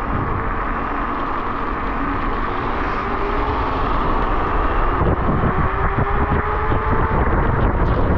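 Electric scooter ridden along: a faint steady motor whine over wind and tyre noise, with more low rumble from about five seconds in.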